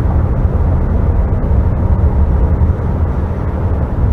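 Cabin noise of a CRJ900 regional jet on the ground after landing: a steady low rumble from its rear-mounted turbofan engines at idle, with a faint steady hum.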